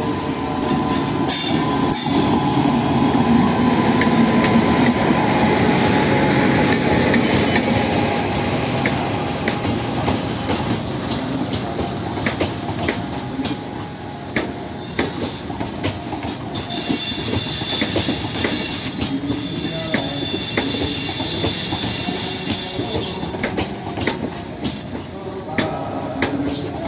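A WAG-9 electric locomotive hauling a Vande Bharat trainset rake passes close by, the locomotive loudest in the first few seconds, then the coaches rumble past with irregular wheel clicks over the rail joints. About two-thirds of the way in, a high wheel squeal rises over the rumble for several seconds.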